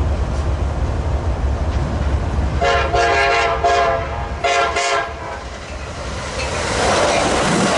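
Amtrak Pacific Surfliner passenger train sounding its horn as it approaches, one long blast then a short one, followed by the rising noise of the train passing on the rails.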